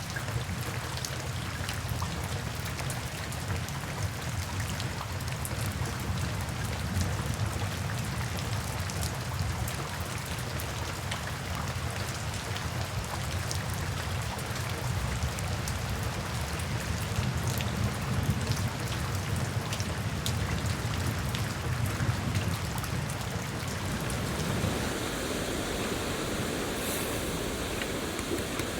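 Steady rain falling in a forest, many separate drop ticks over a low rumble. Near the end the sound turns into a smoother, more even rush.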